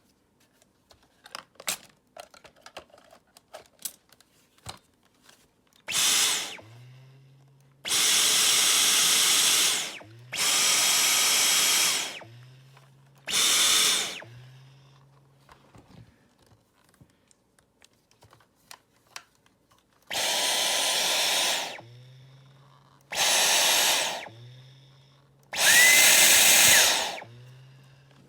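Dyson vacuum cleaner switched on and off seven times in short bursts with its trigger, each burst a loud rush of air with a high motor whine, cut off sharply and followed by a low hum as the motor spins down. Light clicks and handling noises come first.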